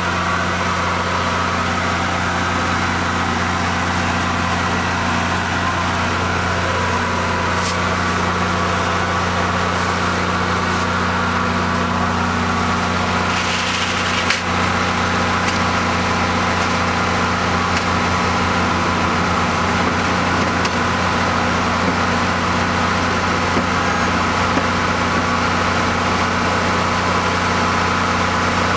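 An engine idling steadily with an unchanging hum, and a short hiss about halfway through.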